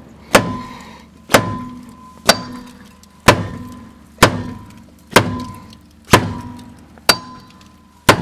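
A seized car wheel being struck about once a second, nine blows in all, each with a short metallic ring, to break it free of the hub it is stuck to.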